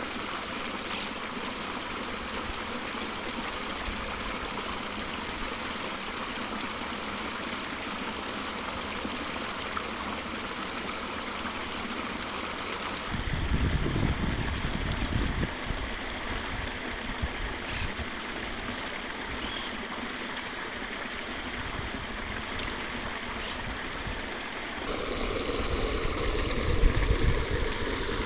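Stream water flowing with a steady rushing. Low rumbles break in twice, about halfway in and near the end.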